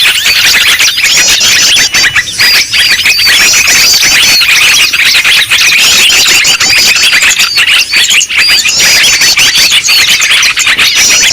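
Many small birds chirping and calling at once, a continuous high-pitched mix of overlapping chirps and quick repeated call notes: a noisy-bird lure recording used to draw in wild songbirds.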